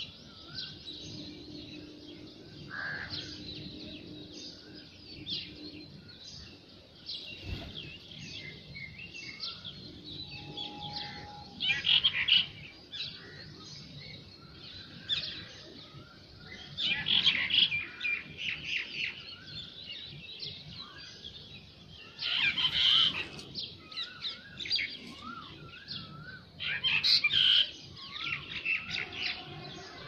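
Birds chirping and calling, with loud clusters of calls about twelve seconds in and again roughly every five seconds after.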